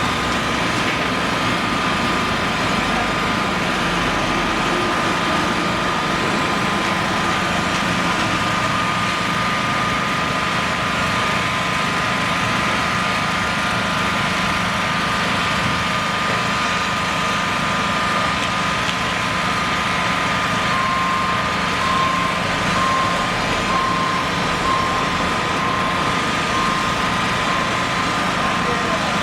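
Steady running engine noise of a vehicle or heavy machine. About two-thirds of the way through, a short beep starts repeating a little faster than once a second.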